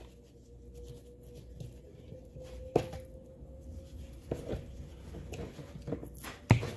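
Soft handling and rustling of twine and a bundle of fresh herbs as a smudge stick is wrapped and readied for a knot. There are a few sharp clicks, the loudest about three seconds in and near the end, over a faint steady hum.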